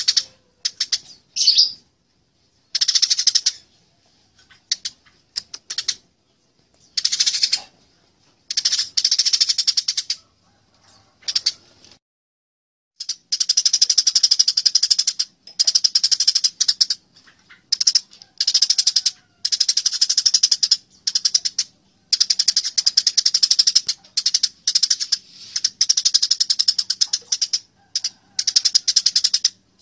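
Eurasian tree sparrows chattering in bursts of rapid, harsh chirps, the agitated calls of sparrows fighting. The bursts are short and separated by gaps at first, then run longer and almost continuous from about halfway on.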